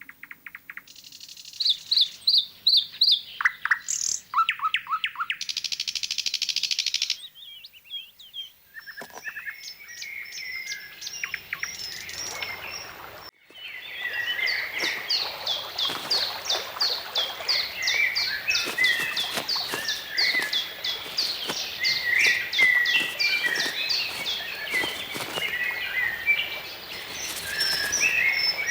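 Forest songbirds singing and calling, in segments that change abruptly twice. The last half is a dense chorus of many birds with quick, repeated chirping notes.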